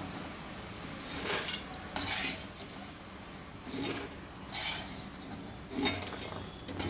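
A metal spoon scraping and clinking against a pan and bowl in about five separate strokes as fried maize chivda is lifted out of the oil, over a faint sizzle of hot oil.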